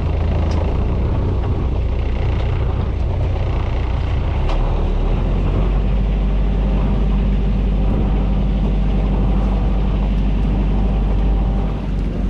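Small fishing boat's engine running under way, with wind and water noise; the engine note changes about four and a half seconds in.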